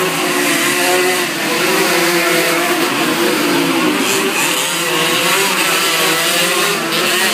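Several racing motorcycle engines running hard together, their pitches wavering up and down as they rev.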